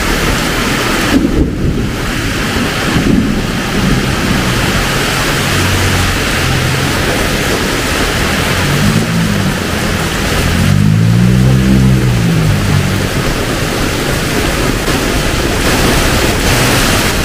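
Heavy tropical rain pouring down as a loud, steady hiss. Partway through, a motor vehicle's engine passes close by, rising and falling in pitch.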